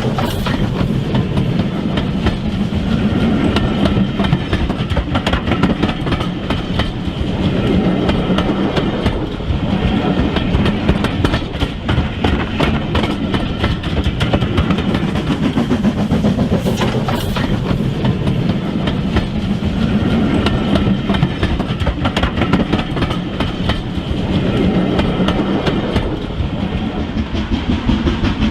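OO gauge model train running along the track: a steady rumble with a dense, fast clicking of wheels over the rails that swells and eases every few seconds.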